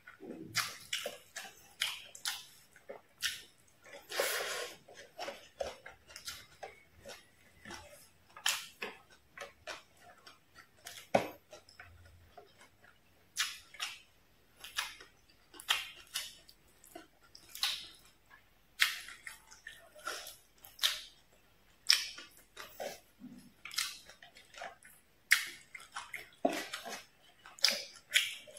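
Close-miked wet chewing and lip smacking from a mouthful of stir-fried fish with ginger and rice. Sharp, irregular smacks come about once or twice a second.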